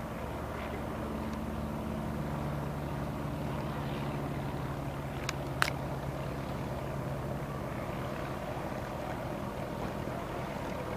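A Mini's engine heard from a distance as it is driven through an autocross cone course, a steady note whose pitch shifts a little. Two sharp clicks come about five and a half seconds in.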